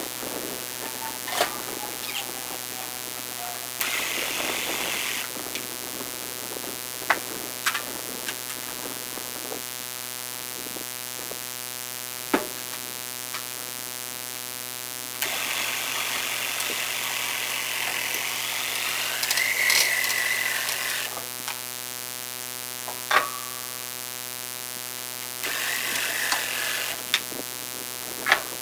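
Steady mechanical hum with sharp clicks and knocks scattered through it, and a few stretches of hissing noise, the longest lasting about six seconds midway.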